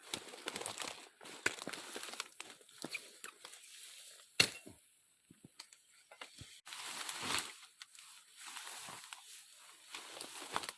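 Leafy plant stems and flower tops rustling as they are cut and handled, with a few sharp snaps and a short near-silent pause about five seconds in.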